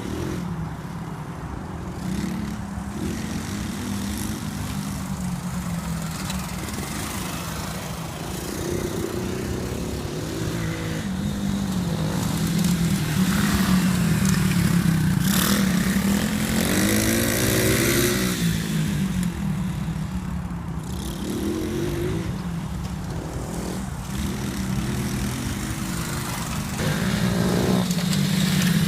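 Pit bike engine running, its note rising and falling as the throttle is opened and closed, loudest about halfway through.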